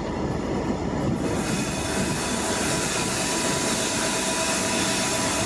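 A train running past close by: a broad rushing rail noise swells about a second in and then holds steady, with a faint steady hum over it.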